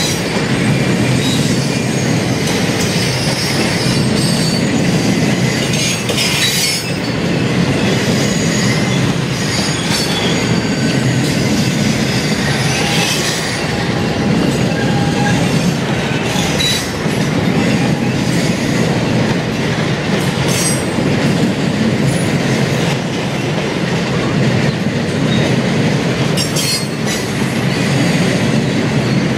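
Freight train of empty bulkhead flatcars rolling past: steady wheel-on-rail rumble and clatter, with a few sharp clanks and brief high wheel squeals.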